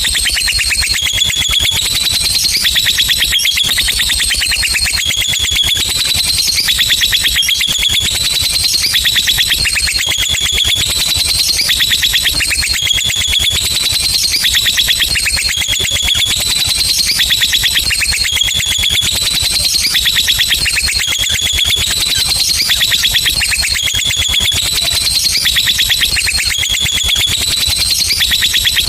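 Lovebird giving a long, unbroken "ngekek" song: a very fast, high-pitched trilling chatter that repeats in short phrases stepping up and down in pitch, without a pause.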